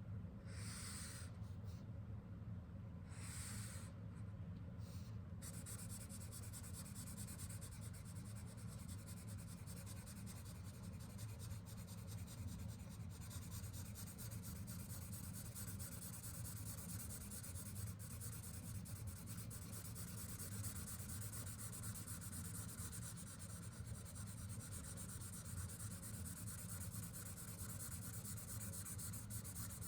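Sharpie fine-point permanent marker scratching across paper as a drawing is made, a faint continuous fine hiss from about five seconds in, over a low steady hum.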